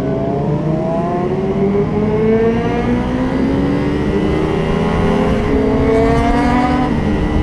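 Motorcycle engines pulling in gear while riding, their pitch climbing slowly, dipping about five and a half seconds in and climbing again, over a steady low wind rumble.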